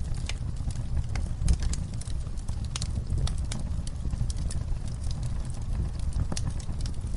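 Campfire crackling: wood burning with irregular sharp pops and snaps over a steady low rumble.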